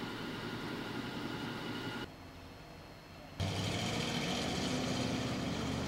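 A C3 Corvette's V8 engine running. The sound drops quieter about two seconds in, then comes back louder and steady about three and a half seconds in as the car drives past.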